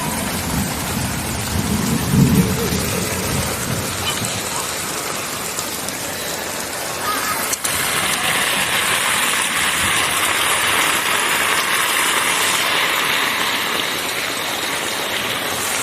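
Heavy rain falling, a steady hiss that turns louder and brighter at about eight seconds in. A low rumble sits under it for the first few seconds.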